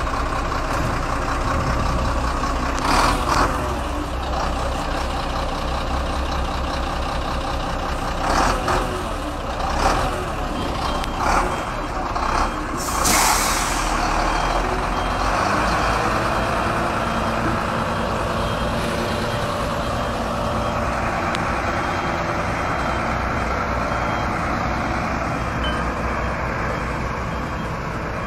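Heavy truck running, with several short loud hiss-like bursts in the first half and a faint repeated high beep in the second half.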